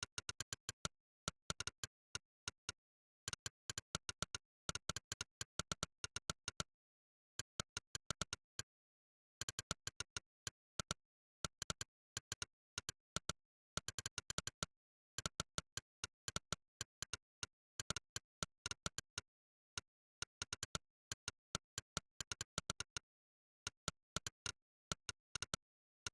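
Monkeytype's synthesized 'click' keystroke sound, one sharp click per key pressed, in fast runs of several clicks a second with short silent breaks between words and phrases.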